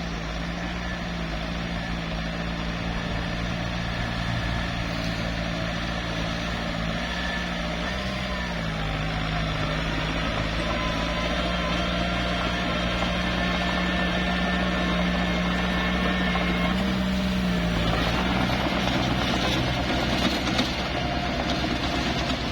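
Small bulldozer's diesel engine running steadily under load while pushing dirt. Its pitch sags briefly about eight seconds in and again near the end, and the sound turns rougher and noisier over the last few seconds.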